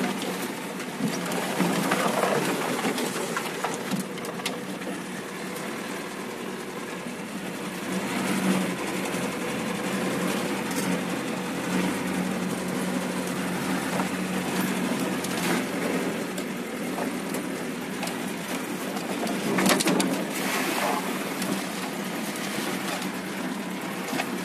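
Off-road vehicle's engine running steadily, heard from inside the cabin as it drives over a rough overgrown track, with scattered knocks and rattles, the loudest about twenty seconds in.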